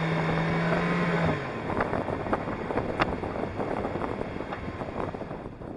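Suzuki Jimny's four-cylinder engine running at steady revs, easing off about a second and a half in. Wind noise and scattered knocks from driving over desert sand follow.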